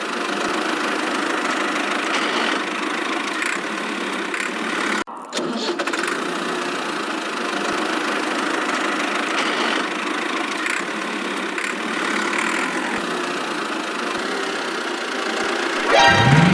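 Engine sound of a miniature tractor running steadily, with a brief break about five seconds in and a rising tone starting near the end.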